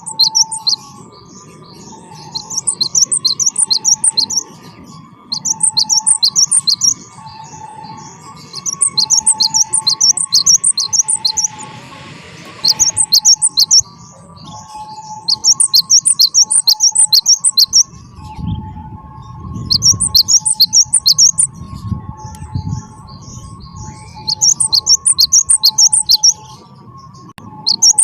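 Cinereous tit (gelatik batu) singing: repeated bursts of rapid, high chattering notes, each burst lasting one to three seconds with short pauses between. A fainter, lower two-note warbling runs steadily beneath.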